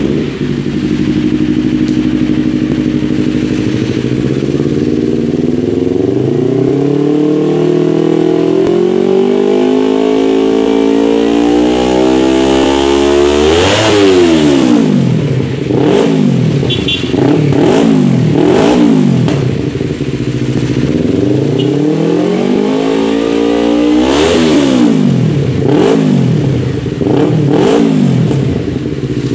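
Yamaha R25 parallel-twin engine running through a full-system Scorpion carbon aftermarket exhaust: idling, then revved in one slow climb to a high peak about halfway through, dropped back, then blipped in a series of quick rise-and-fall revs with another long climb near the end.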